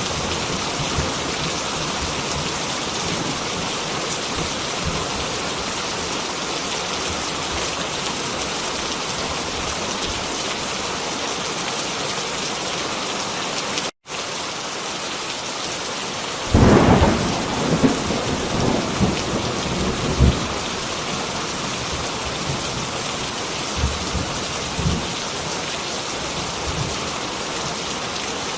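Heavy rain falling steadily, a dense even hiss. The sound cuts out for an instant about halfway through, and soon after a thunderclap rolls in with a few seconds of rumbling and cracks, followed by a couple of fainter low rumbles.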